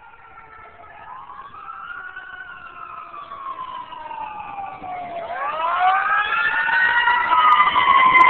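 Fire engine siren wailing, its pitch rising and falling slowly, growing steadily louder as the truck approaches.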